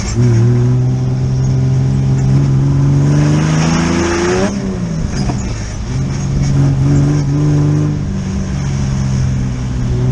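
Off-road buggy engine under throttle: revs climb steadily for about four seconds with a rush of noise, then drop off sharply, pick back up and hold before easing near the end.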